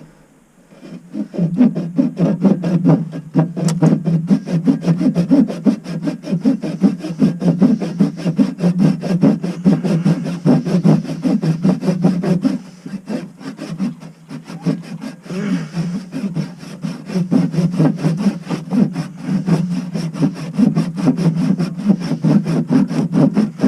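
A saw cutting through ABS plastic drain pipe in quick, steady strokes, starting about a second in and easing briefly about halfway through.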